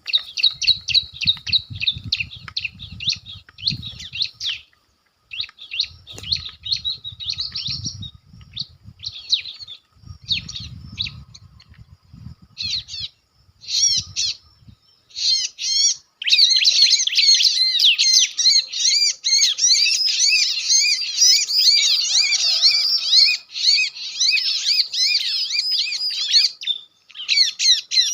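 Bar-winged prinia (ciblek batik) calls: fast, high-pitched chirping in short bursts, running almost without a break from about sixteen seconds in. A low, uneven rumble sits under the first dozen seconds.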